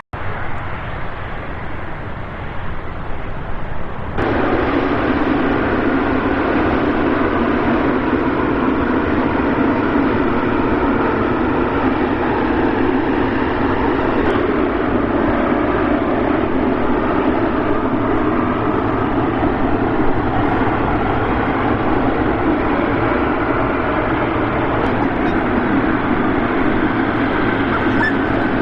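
Boeing 777 freighter's jet engines running: a steady, loud rush of engine noise that jumps abruptly louder about four seconds in and then holds.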